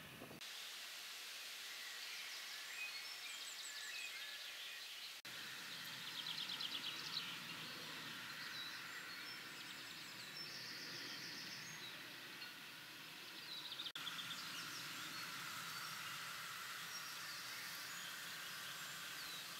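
Several small birds singing and calling: quick trills, chirps and rapid repeated notes over a steady outdoor hiss. The sound drops out briefly about five and fourteen seconds in.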